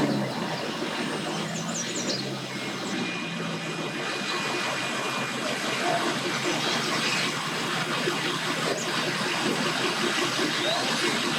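Engines running over a steady wash of outdoor noise, with a low engine hum strongest in the first few seconds.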